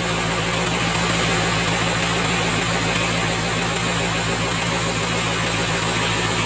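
Freshly overhauled Hyundai D4BB four-cylinder diesel engine idling steadily.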